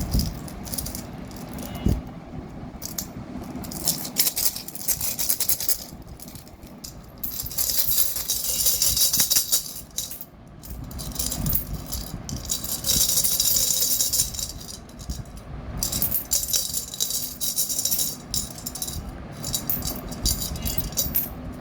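Coins rattling inside piggy banks as they are shaken to get the money out, in long irregular spells of clinking, loudest around the middle.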